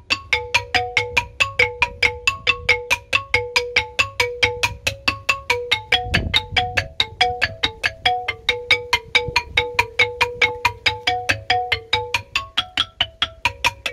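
Rindik, the Balinese bamboo xylophone, played in a quick, even stream of struck notes, about five a second. A low rumble runs beneath it, with a brief louder low thud about halfway through.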